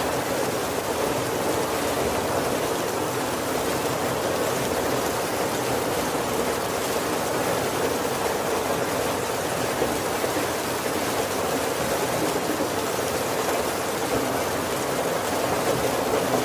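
Heavy rain falling steadily on the wooden roof of a carriage: an even, unbroken hiss with no thunder.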